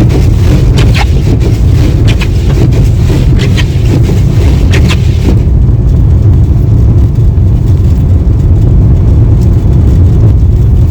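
Steady low rumble of a car driving, heard inside the cabin, with short sharp clicks and scrapes during the first half; about halfway through the high end of the noise drops away.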